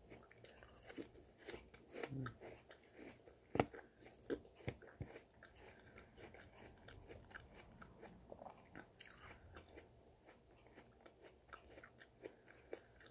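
Person chewing a mouthful of raw Honeycrisp apple close to the microphone, with irregular crisp crunches. The crunches are loudest in the first five seconds, then give way to softer chewing.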